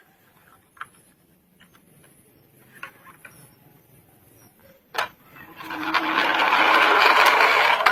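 Plastic toy car being handled with a few light clicks and one sharp click about five seconds in, then rolled along a hard surface: its wheels make a steady rolling noise for about two seconds that stops abruptly.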